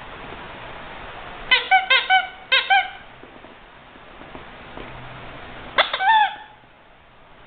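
Rubber squeaky toy squeezed: three quick squeaks about a second and a half in, each dropping in pitch at the end, then another squeak about six seconds in, over a low steady hiss.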